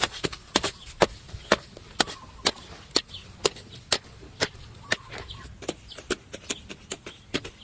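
A hand tool striking wood in a steady rhythm, about two sharp strikes a second.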